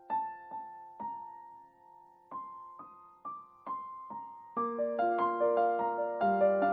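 Background music: a gentle piano piece, with single notes and soft chords that ring and fade. About two-thirds of the way in it grows fuller and louder with denser chords.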